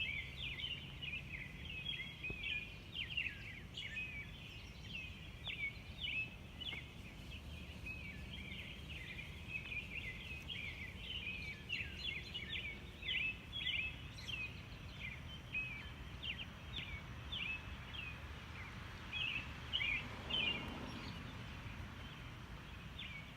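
Many birds chirping and singing at once in a morning chorus: short, quick calls overlapping without a break over a low, steady background hum. A brief soft rushing noise comes about twenty seconds in.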